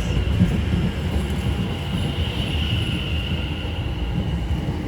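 Train moving through a station: a steady low rumble with a high, wavering whine over it, and a light knock about half a second in.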